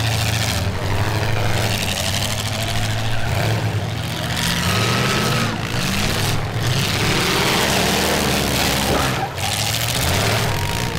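Several V8 demolition derby cars' engines running loud together, the revs rising and falling as the cars manoeuvre around the arena.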